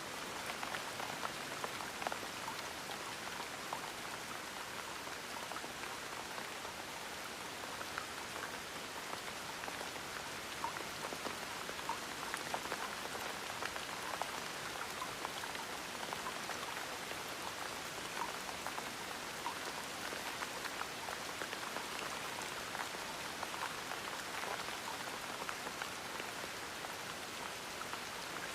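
Steady gentle rain, a continuous patter with many small individual drops ticking on a surface.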